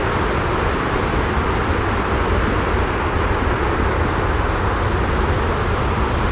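Steady, unchanging white-noise track with a strong low rumble and a softer hiss above it, with no breaks or separate events.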